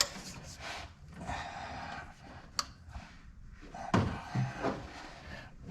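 Wrench straining against a tight oil drain plug on a car's oil pan, with scraping, a sharp click a little past two and a half seconds in, and a louder knock about four seconds in.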